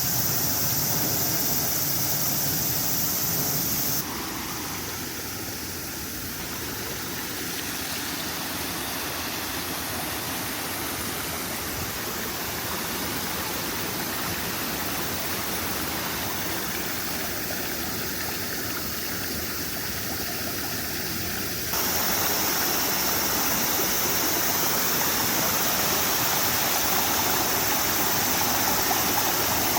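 Steady rush of running water. It drops abruptly in level about four seconds in and jumps back up at around twenty-two seconds.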